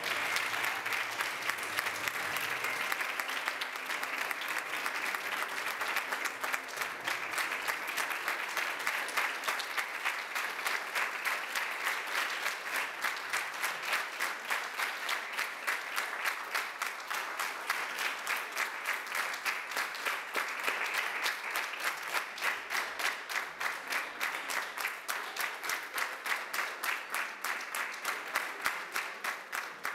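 Audience applauding; after several seconds the clapping falls into a steady rhythmic beat in unison, and it dies away near the end.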